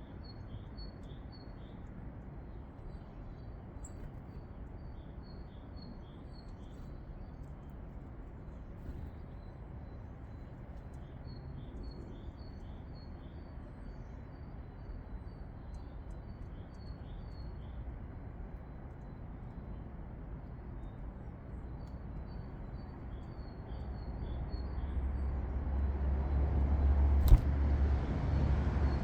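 A garden songbird singing bouts of quick, repeated high two-note phrases over steady low background noise. Near the end a vehicle's low rumble swells and becomes the loudest sound, with one sharp click in it.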